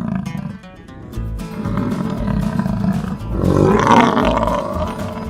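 A large animal's rough, roar-like call, building from about a second in and loudest near four seconds, over background music with a beat.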